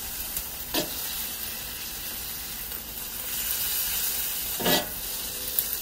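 Chicken pieces in teriyaki marinade sizzling in a hot wok over charcoal while a metal spoon stirs them. The hiss swells a little past the middle, and there are two brief louder sounds, one about a second in and one near the end.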